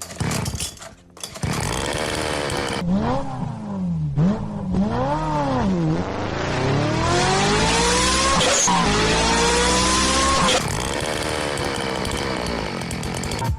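Motorcycle engine revving: the pitch rises and falls in a few quick blips, then climbs in two long revs before cutting off about ten seconds in.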